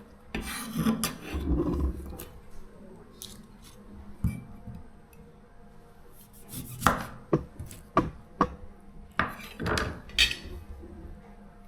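Irregular knocks, clicks and light scraping of kitchen utensils as tomatoes are worked into a papaya salad, with a cluster of sharp knocks in the second half.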